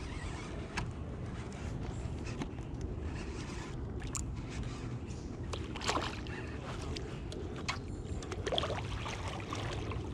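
Water splashing and sloshing at a kayak as a hooked smallmouth bass is played and brought alongside, with light clicks and knocks, over a steady low rumble. The two louder splashes come about six and eight and a half seconds in.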